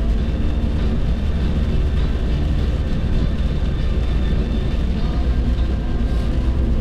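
Steady road noise inside a car's cabin at highway speed: a constant deep rumble of tyres and engine with a hiss of air over it.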